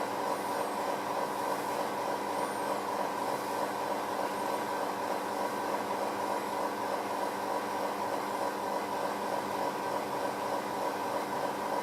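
Espresso machine pump running steadily with an even, droning hum while a shot extracts through a bottomless portafilter.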